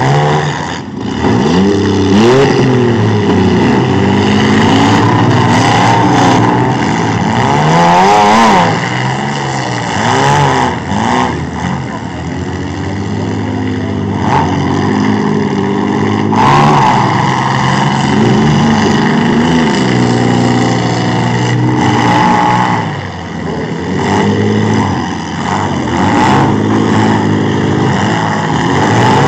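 Several demolition-derby truck, van and SUV engines revving hard, their pitch climbing and falling as the vehicles charge and back up. A few sharp bangs from collisions cut in now and then.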